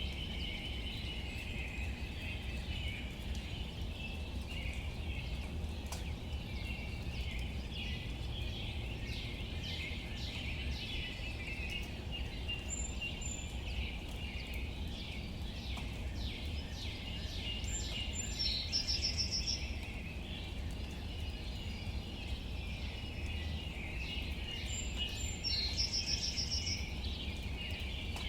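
Light rain dripping and pattering on leaves under a steady low rumble, with birds chirping throughout. A bird gives a short rapid trill twice, about 19 and 26 seconds in.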